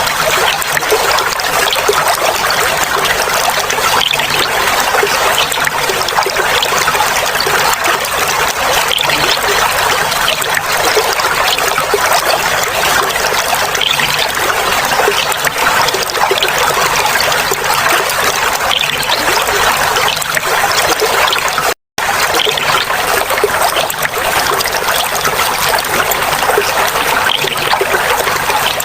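Clear water flowing and trickling, a steady babbling without let-up. It drops out to silence for an instant about three-quarters of the way through.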